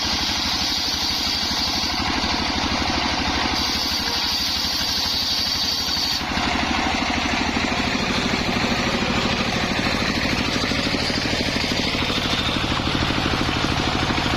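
Engine of a homemade circular-saw machine running steadily with an even pulse. A higher whine over it stops about six seconds in, and the engine carries on a little louder.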